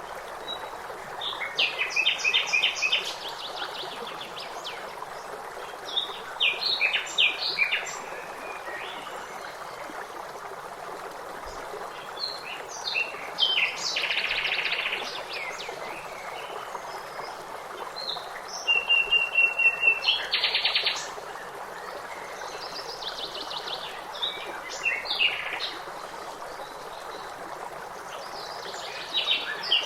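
Songbirds singing in short phrases every few seconds, several of them fast trills, over the steady rush of running water from a stream.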